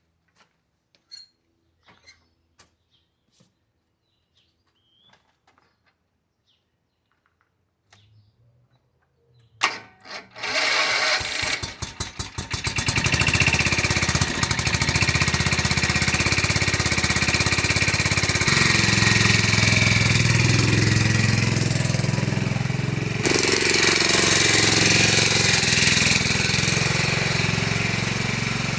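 Zero-turn mower's Kawasaki FS651V V-twin engine starting after about ten seconds of near silence with a few faint clicks: a sharp bang, a couple of seconds of uneven firing as it catches, then running steadily, its sound shifting twice later on.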